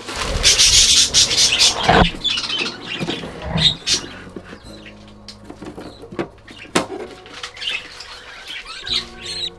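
Budgerigar chicks calling with harsh, raspy squeaks, loudest and most continuous in the first couple of seconds, then scattered short chirps and clicks.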